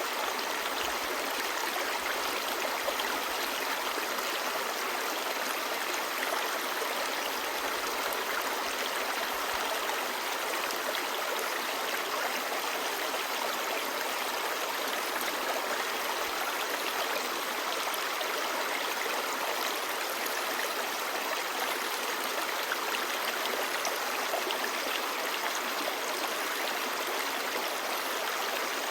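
Clear stream babbling, a steady even rush of running water dense with small splashes.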